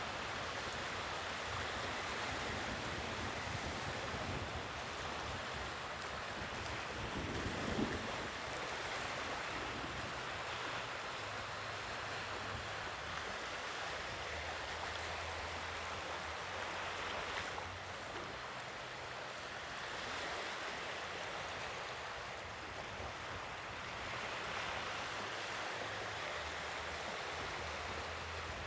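Sea waves washing in on the shore, a steady rush of surf that swells and eases slowly, with wind on the microphone. A brief low thump about eight seconds in.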